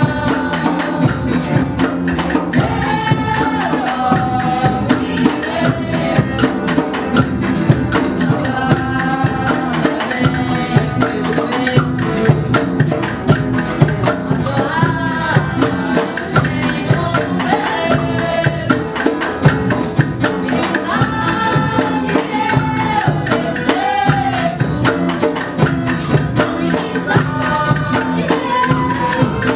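A small acoustic folk band playing: fast, steady hand percussion and tambourine under acoustic guitar and cello, with a sung melody line on top.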